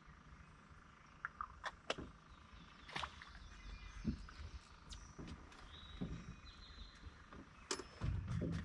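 Scattered small clicks and knocks from baiting a fishhook with cut bait in a boat, with a louder dull thump about eight seconds in.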